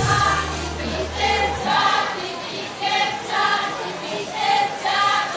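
Choir singing a series of held notes, with a low held bass note underneath that stops about a second and a half in.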